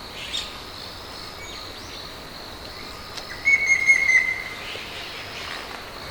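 Wild birds calling, with one bird giving a quick rapid run of chirps about three and a half seconds in, over a steady high, thin background tone.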